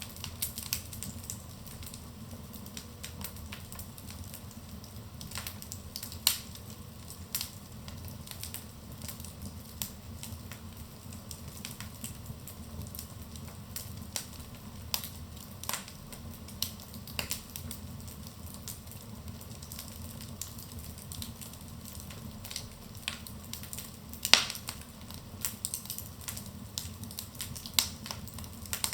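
Wood fire in a fireplace crackling: irregular sharp pops and snaps over a steady low rumble of burning, with one especially loud pop late on.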